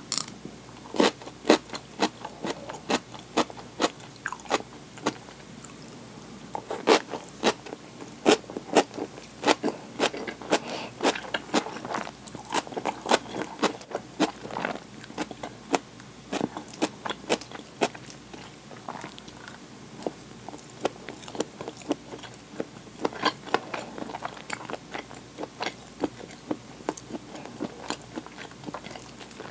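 A person chewing crunchy food, with runs of sharp, crisp crunches at about two to three a second, easing off briefly a few times.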